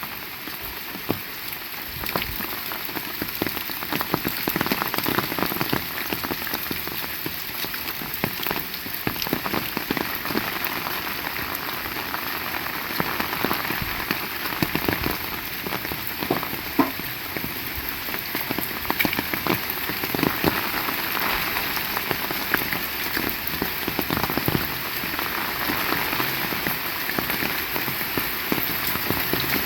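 Heavy rain falling steadily, with many separate drop hits close by against a dense wash of rain, slowly growing a little louder.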